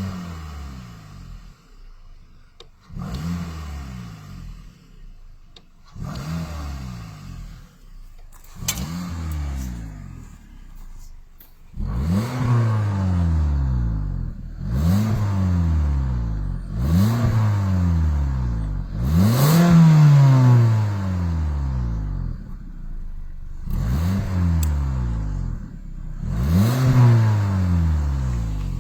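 Car engine revved over and over by pumping the accelerator pedal, heard at the exhaust: each rev climbs quickly and falls back toward idle. The first few revs are softer and short; from about twelve seconds in they come harder and louder, about one every two seconds.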